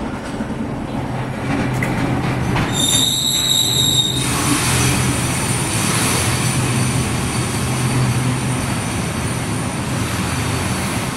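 Enoden electric train pulling into a station platform and slowing: a steady running rumble and hum, with a sharp high squeal of the wheels for over a second about three seconds in. After that it grows louder, with thinner high squealing as the cars roll past and brake.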